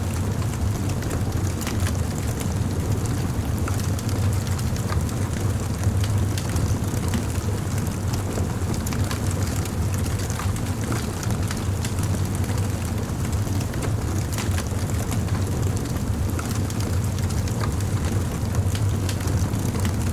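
Wood fire burning, with frequent sharp crackles and pops over a steady low rush.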